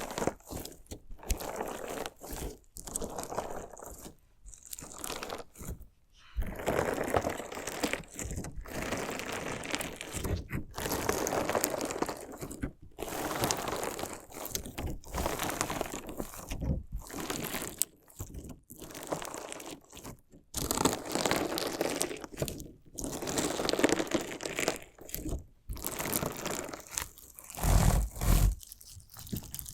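Crunchy slime mixed with small decorative stones being cut and stabbed, making a grinding crunch in repeated strokes a second or two long with short pauses between them. There is a heavier low thump near the end.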